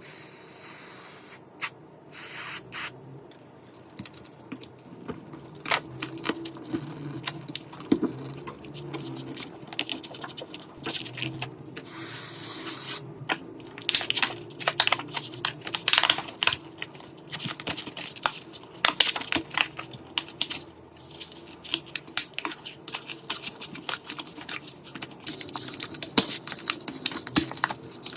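Small clicks, taps and scrapes of hand tools working on a smartphone, with short bursts of hissing spray.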